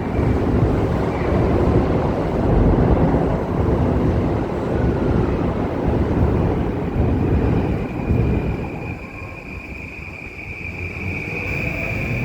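Gusty wind buffeting the microphone over a low street rumble. From about seven seconds in, the wind eases and a steady high whine grows louder toward the end.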